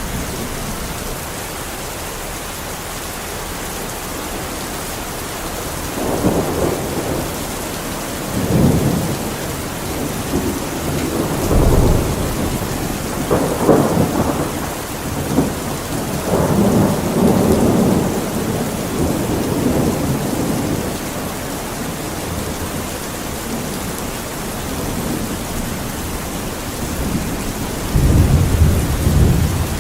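Steady rain with thunder rumbling in rolling waves from about six seconds in until past the middle, then a new rumble starting near the end.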